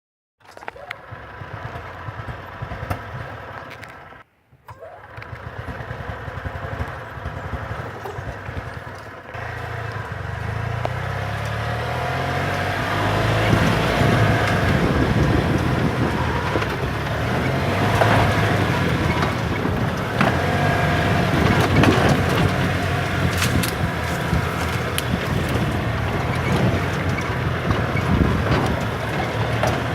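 Golf cart's small engine running and driving, its pitch rising and falling as it speeds up and slows down, with knocks and rattles over the ground. It cuts out briefly about four seconds in and gets louder from about ten seconds in.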